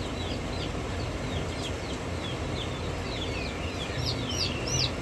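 Baby chicks peeping: many short, high chirps, each sliding down in pitch, several a second, growing louder near the end.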